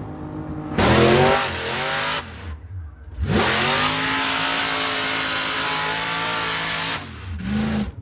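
Truck engine revving hard: it climbs sharply about a second in and falls back, then revs up again and holds high revs for about four seconds before dropping, with a loud hiss over the high-rev stretches.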